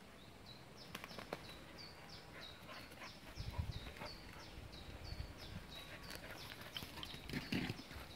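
A bird calling, a short high note that falls slightly in pitch, repeated about three times a second, over footsteps and rustling, with a few dull thumps midway and near the end.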